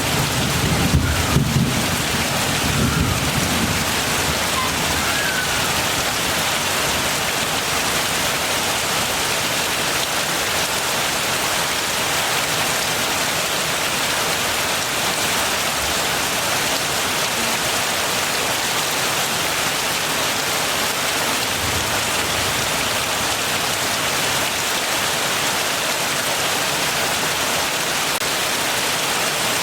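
Heavy rain falling steadily, with a low rumble of thunder dying away in the first few seconds.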